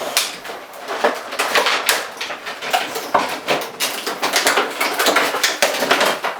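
Plastic packaging being handled and pulled apart, a dense run of irregular crackles and clicks.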